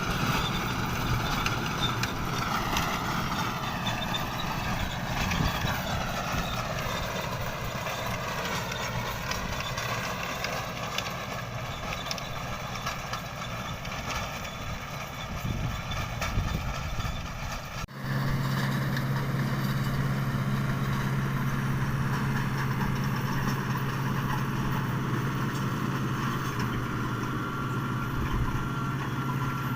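Tractor engine running, its pitch wandering down and back up as the load or throttle changes. After a sudden cut about two-thirds of the way in, an engine drones steadily at one even pitch.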